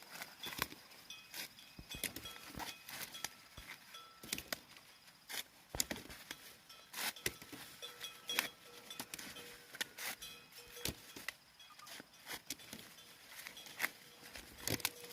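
Irregular clicks and knocks from hands-on work, many short sharp strikes at uneven intervals, over faint steady high tones.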